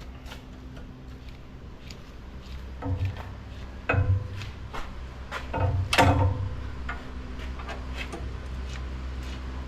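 Hand grease gun being worked on the log grapple's grease fittings: a few irregular metal clicks and knocks, the loudest about four and six seconds in, over a steady low hum.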